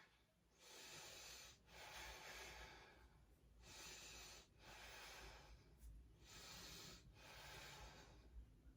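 A woman breathing audibly and slowly, in and out, while she holds a strenuous yoga pose: about six faint breath sounds, each a second or so long, with short pauses between them.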